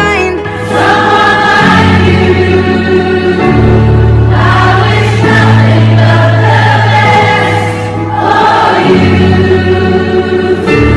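Choral music: many voices singing long held chords over a deep bass line that shifts every few seconds, cutting off abruptly at the end.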